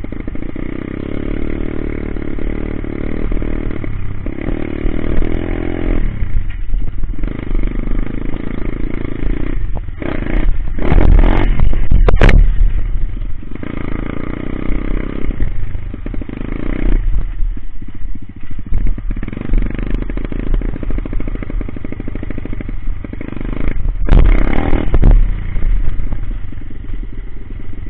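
Coolster Speedmax 125 pit bike's 125cc single-cylinder engine running as it is ridden, with two hard bursts of throttle, one about ten seconds in and one about twenty-four seconds in, and a sharp crack at the peak of the first.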